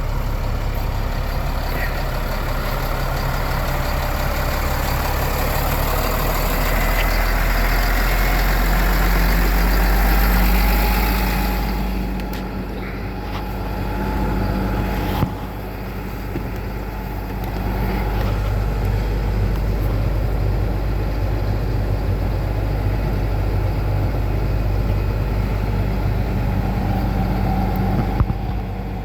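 Caterpillar 3126 inline-six diesel engine in a medium-duty truck running at idle. It speeds up and grows louder for a few seconds about a third of the way in, then drops back to a steady idle. There is a sharp click about halfway through.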